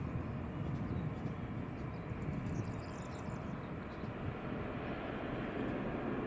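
Airliner engine noise, a steady low rumble.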